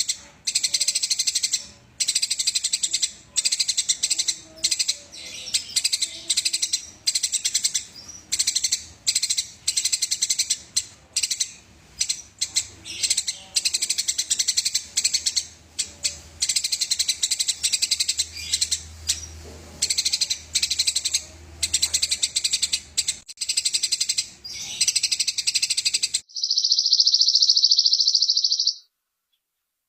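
Eurasian tree sparrow chirping in a fast, unbroken rolling chatter, the agitated fighting song of the species. Near the end the chatter gives way to a steady high trill lasting a couple of seconds, which cuts off suddenly.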